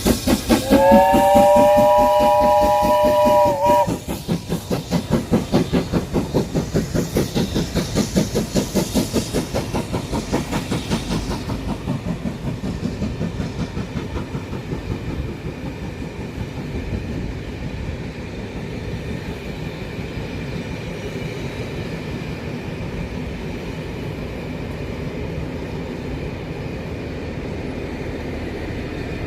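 Steam locomotive working past with rapid, even exhaust beats; its whistle sounds a chord of several tones for about three seconds, starting about a second in. The beats then fade away into a steady rumble.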